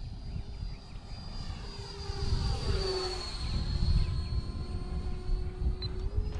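Electric ducted-fan F-86 model jet flying past with a high whine, loudest about three seconds in, its pitch dropping slightly as it goes by. Wind buffets the microphone with a low rumble throughout.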